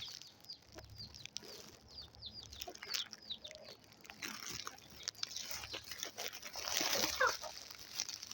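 Aseel chickens feeding: sharp pecking clicks mixed with many short, high calls and clucks, with one louder call about seven seconds in.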